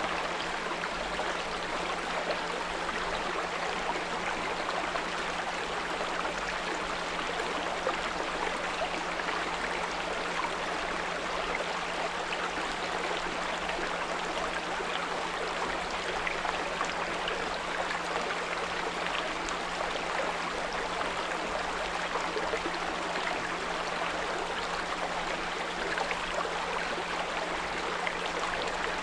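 Small brook babbling steadily over stones, with a continuous 174 Hz pure tone humming underneath.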